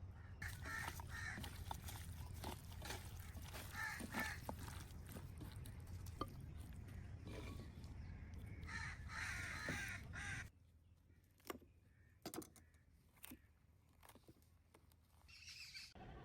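Crows cawing several times over a steady low rumble. The rumble stops abruptly about ten seconds in, leaving a quieter stretch with a few scattered sharp clicks.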